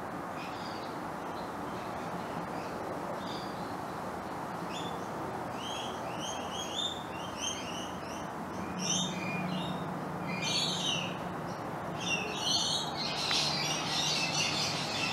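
Birds chirping in quick runs of short, curved calls that grow busier toward the end, over a steady low background hum.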